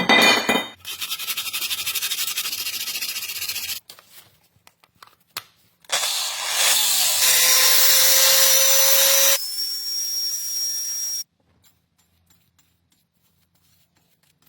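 A power tool running in separate stretches of a few seconds each, the later one louder with a slowly rising whine, and stopping suddenly a little past the middle. The rest is near silence.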